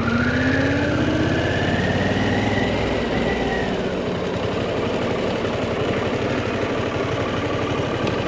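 Harley-Davidson Pan America's 1250 V-twin engine pulling under acceleration, heard from the rider's seat. Its pitch rises over the first couple of seconds, then it runs steadily.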